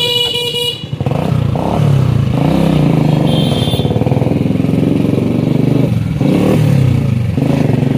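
Motorcycle engine running under way, its pitch rising and falling several times as it accelerates and eases off.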